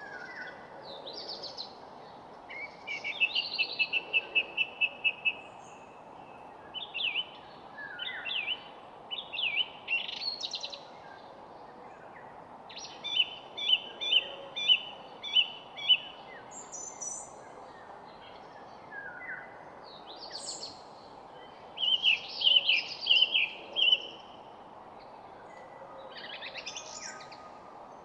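Songbirds singing phrase after phrase with short pauses. Several of the phrases are fast runs of repeated chirping notes, over a steady background hiss.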